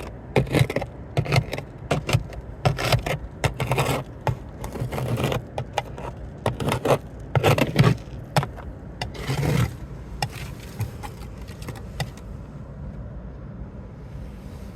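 Ice scraper scraping freezing-rain ice off a car in many quick, irregular strokes, which stop about ten seconds in. A low steady hum runs underneath.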